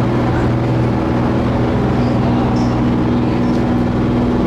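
Ferry engine running under way, a steady low hum with no change in pitch.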